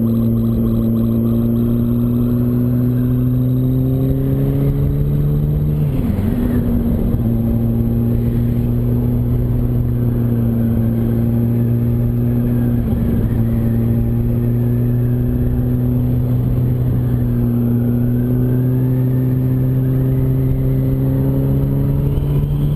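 Yamaha R1 sportbike's inline-four engine running under way through tight corners. The engine note rises for the first few seconds, breaks briefly about six seconds in, then holds steady and climbs gently again near the end, with wind rushing over the microphone.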